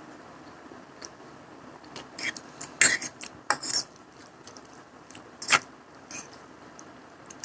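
Utensil clinking against the dish of Maggi noodles while eating: a handful of sharp clicks and taps in the middle of the stretch, two of them louder than the rest.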